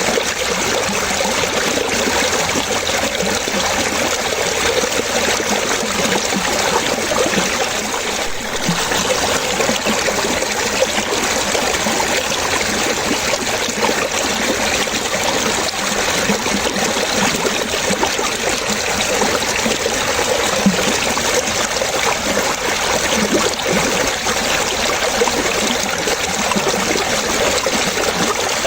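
Running water trickling and splashing steadily, like a small stream or cascade, with constant small splashes and no pauses.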